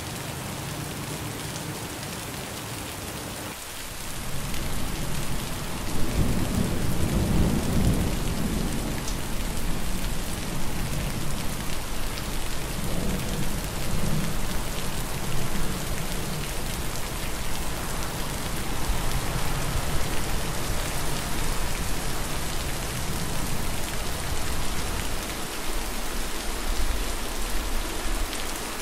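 Steady, heavy rainfall that grows louder about four seconds in, with deep low rumbles, like thunder, around six to eight seconds in and again a little later.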